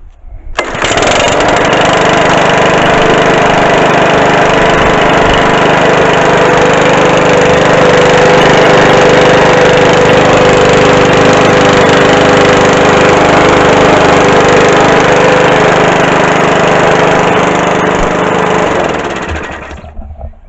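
Mountfield 414 lawnmower's petrol engine catching at once about half a second in and running steadily at speed, its carburettor problem now sorted, then winding down and stopping near the end.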